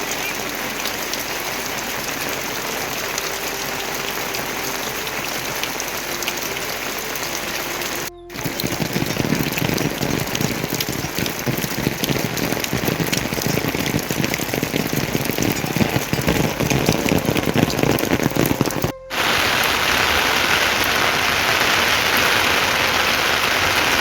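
Rain falling steadily, a dense patter of drops. It drops out briefly twice, about a third and four fifths of the way in, and the sound of the rain changes after each break.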